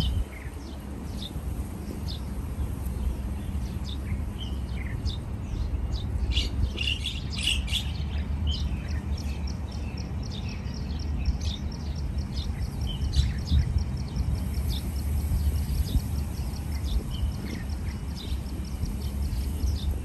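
Small birds chirping: scattered short high chirps, a cluster of louder calls about six to eight seconds in, then a quick, evenly spaced run of repeated chirps lasting several seconds. A steady low rumble runs underneath.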